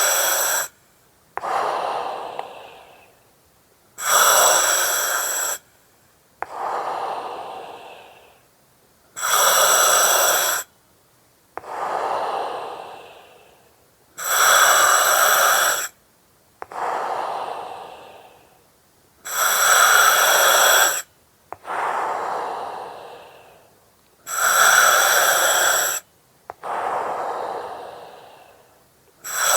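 Slow, regular breathing through an oxygen mask. Each breath is a loud hiss that starts and stops abruptly, followed by a softer breath that fades away. About six breaths, one every five seconds or so.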